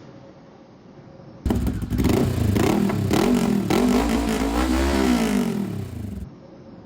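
Motorcycle engine revving, its pitch rising and falling. It cuts in abruptly about a second and a half in and stops suddenly near the end.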